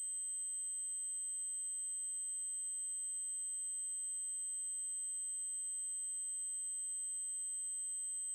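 Synthesized 8192 Hz triangle-wave test tone: a single steady, very high-pitched tone that holds without change.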